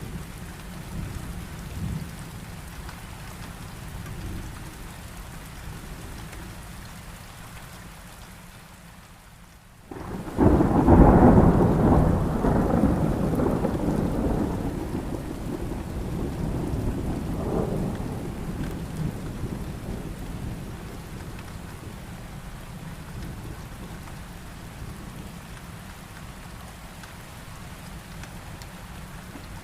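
Heavy rain falling steadily, broken about ten seconds in by a sudden loud thunderclap that rumbles on and slowly fades over about ten seconds while the rain continues.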